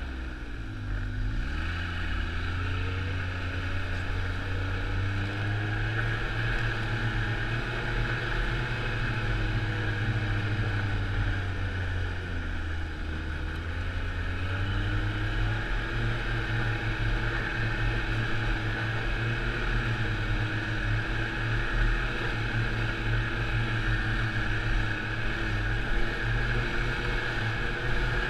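Snowmobile engine running steadily under way. Its pitch drops and climbs back twice, just after the start and again around the middle.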